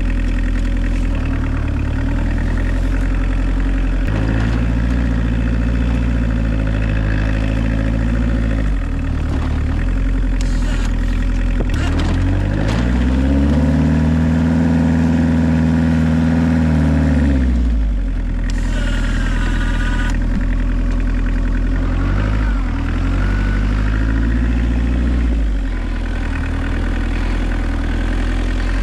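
Diesel engine of a homemade 4x4 UTV running, its revs rising and falling as it works. A long rev-up comes a little before halfway, is held for a few seconds and drops back, and a shorter rise and fall comes later.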